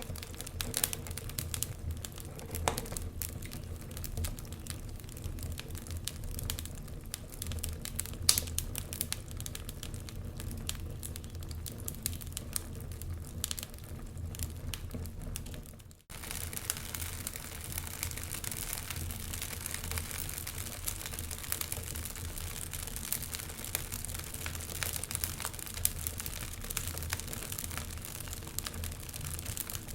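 Wood fire crackling, with frequent sharp pops and snaps, one louder pop about eight seconds in. The sound drops out for an instant about halfway, then goes on with more hiss and fewer pops.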